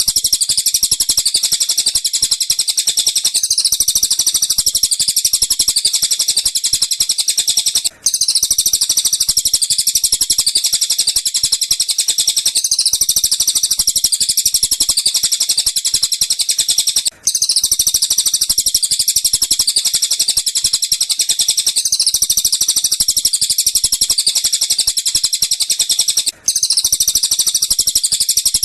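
Recorded bird calls: a dense run of rapid, high-pitched chirps that goes on without pause. It drops out for an instant about every nine seconds as the looped recording starts over.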